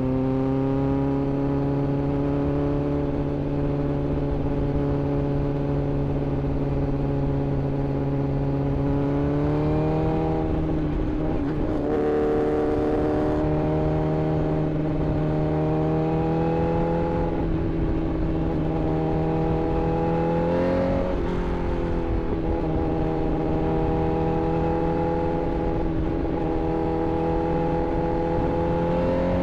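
Inline-four sportbike engine running at fairly steady cruising revs, its pitch stepping up or down a few times as the throttle changes, about a third of the way in and again about two-thirds through.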